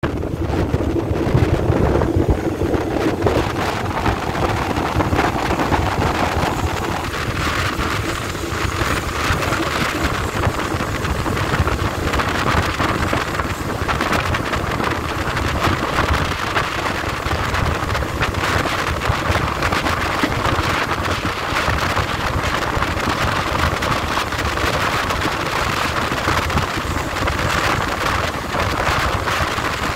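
Passenger train running, heard from an open carriage window: a steady rumble of wheels on rail, with wind buffeting the microphone.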